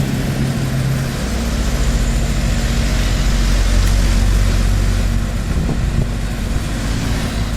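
Heavy diesel engine running steadily. About a second in, its note drops to a deeper, louder hum that peaks near the middle, as the machine is put under more load or changes speed.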